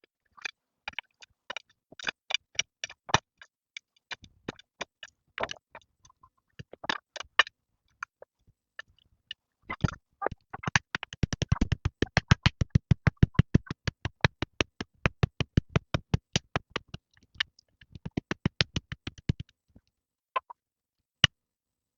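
A series of sharp knocks, scattered at first, then a fast even run of about six a second for some nine seconds, and a couple of single knocks near the end.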